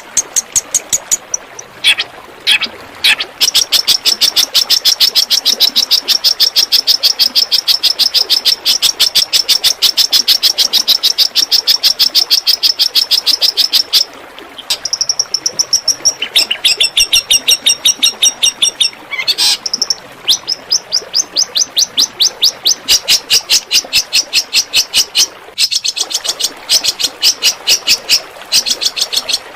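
Songbird singing long runs of rapid-fire 'tembakan' song: sharp high notes repeated many times a second, with brief pauses between strings. This is birdsong played as masteran to teach a long-tailed shrike (cendet) to copy it.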